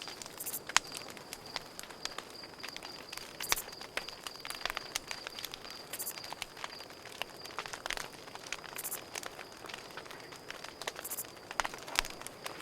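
Campfire crackling, with many irregular sharp pops and snaps from the burning wood. Behind it a cricket chirps in a steady, rapid high-pitched pulse. A short, very high buzz comes back every two to three seconds.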